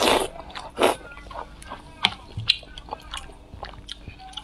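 Close-miked eating sounds of braised pork belly: two short loud wet mouth noises in the first second, then wet chewing with many small lip smacks and clicks.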